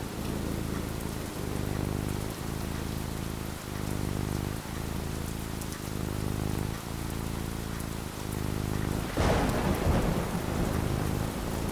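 Steady rain with low, rolling thunder rumbling underneath. About nine seconds in, a louder, sharper thunderclap breaks and rumbles away over a couple of seconds.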